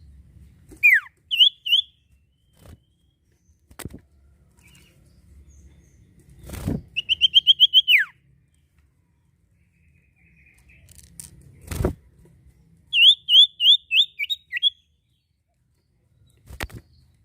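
A sirpu (sirtu) songbird singing in three bursts: a sharp falling whistle followed by three quick chirps, then a fast run of about eight clear chirps ending in a falling note, then another run of about seven chirps. A few dull thumps fall between the phrases.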